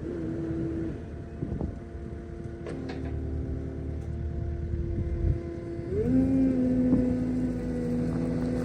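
Skid steer engine running steadily, then revving up about six seconds in and holding at the higher speed.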